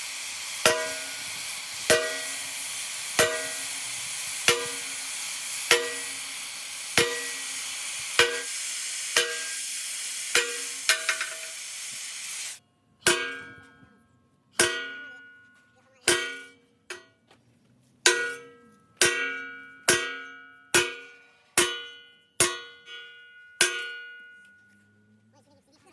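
Hammer blows on steel, each leaving a ringing metallic clang, about one every second and a half over a steady hiss. The hiss cuts off about halfway through, and the ringing blows go on a little faster near the end.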